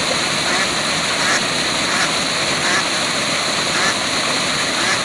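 Waterfall: a steady, even rush of falling water, with a few faint short sounds over it.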